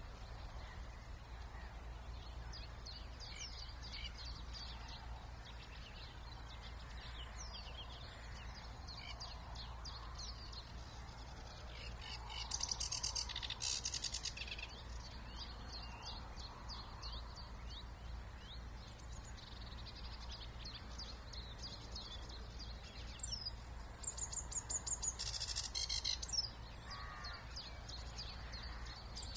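Several songbirds singing, mostly short high chirps and trills, with two louder stretches of fast, dense song about twelve seconds in and again near the end. A faint steady low rumble runs underneath.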